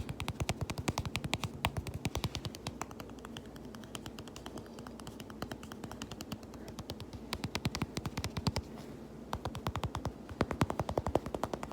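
Rapid tapping on a fabric pouch, many quick taps a second. The taps soften in the middle and grow sharper again near the end.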